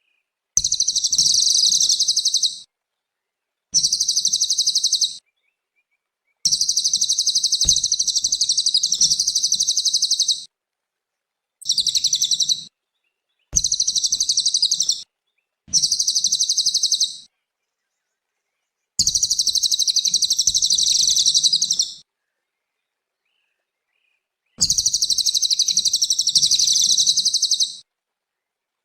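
Cililin singing rapid, high trills in about eight bouts of one to four seconds each, with silent gaps between them.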